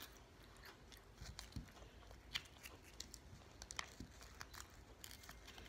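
A child chewing chocolate wafer balls with her mouth closed: scattered faint crunches.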